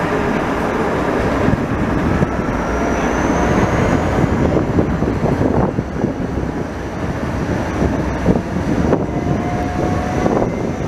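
Passenger train running along the line, heard from inside a MÁV Bz coach through the open window: a steady rumble of wheels on rails with wind rushing past and scattered knocks from the running gear.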